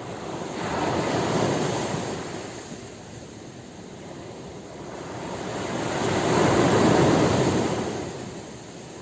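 Ocean waves breaking and washing on the shore, two surges swelling and fading, one about a second and a half in and a louder one about seven seconds in.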